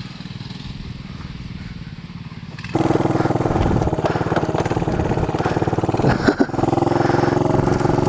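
Small mini bike engine running with a steady buzz. About three seconds in it becomes much louder and closer, then dips briefly and clatters near six seconds before running steadily again.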